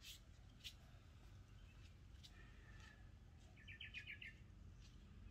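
Near silence with a faint bird call: a quick run of about eight short high chirps about three and a half seconds in.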